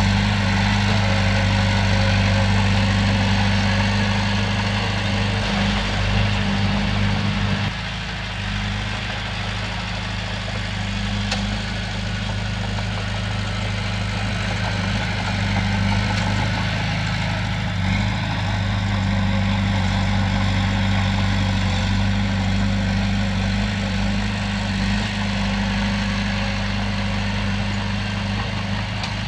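Komatsu bulldozer's diesel engine running steadily, with a deep even drone. It eases off about eight seconds in and then picks back up.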